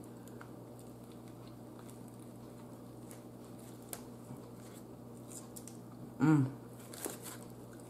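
Faint chewing and wet mouth sounds of a person eating a bite of a sub sandwich, with soft scattered clicks. About six seconds in there is a brief hummed vocal sound from the eater.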